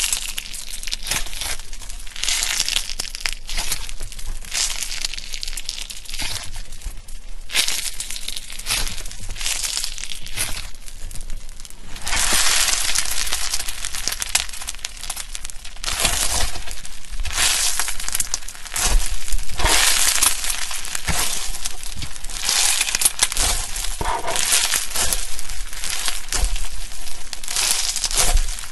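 Slime being squeezed and pressed by hand, giving a dense crackling and crunching full of tiny pops and clicks. It comes in several stretches that change in loudness and texture, the fullest from about twelve seconds in.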